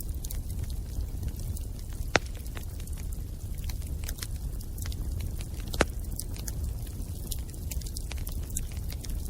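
Bonfire burning: a steady low rumble of flames with constant small crackles of burning wood. Two louder sharp pops stand out, about two seconds in and again near six seconds.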